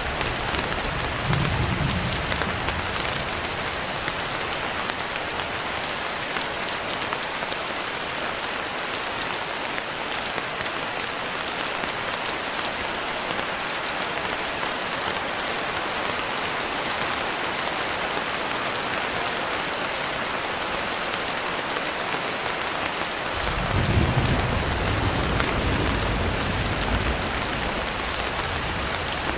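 Steady heavy rain with low rolls of thunder: a short rumble about two seconds in and a longer, louder one near the end.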